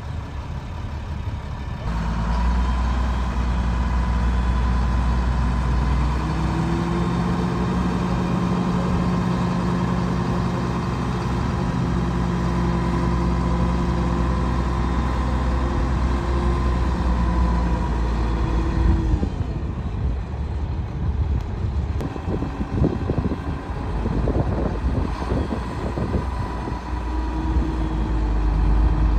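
1999 Peterbilt 330 box truck's diesel engine running. Its pitch steps up about six seconds in, drops back a little before twenty seconds, and rises again near the end.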